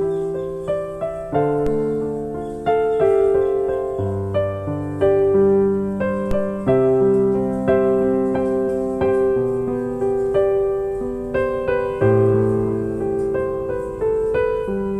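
Slow piano music: single notes and chords struck roughly once a second, each left to ring and fade, over held bass notes.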